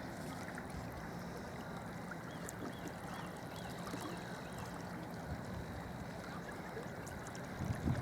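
Small waves lapping at a lakeshore as an even, steady wash. Around the middle a bird gives a quick run of about six faint, high chirps.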